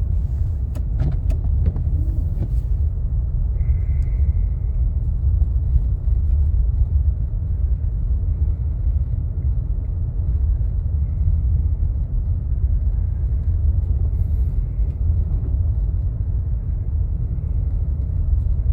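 Steady low rumble of a car driving on a snowy, salted road, heard from inside the car. A few sharp clicks come in the first two seconds, and a short high tone about four seconds in.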